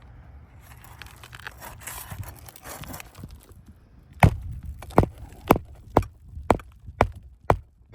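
Magnetic roofing hammer driving a roofing nail flush into an asphalt shingle: about eight sharp blows, roughly two a second, starting about halfway through. Before them, soft rustling and scraping as the next nail is set.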